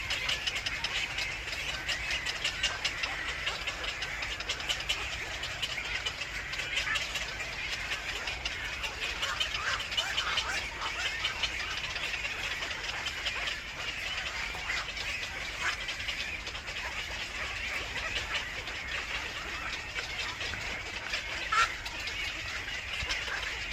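Birds chirping: a dense, continuous run of short, rapid chirps, with one louder call near the end.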